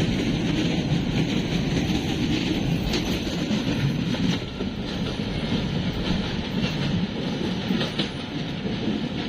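Intercity passenger train rolling along the rails with a steady rumble of wheels and coaches, and a few sharp clicks from the wheels on the track.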